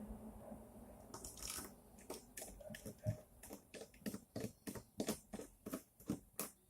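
Acrylic frame plates of a 3D printer kit being handled and fitted together: a run of light clicks and taps, about two or three a second, starting about a second in.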